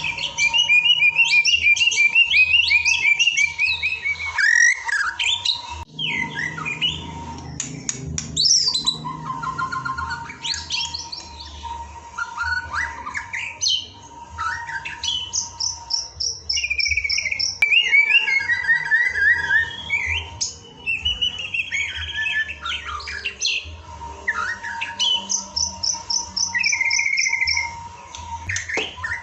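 Songbird song played as a masteran training recording for white-rumped shamas: a rapid string of varied whistles, fast trills and chirps, with a faint steady tone underneath.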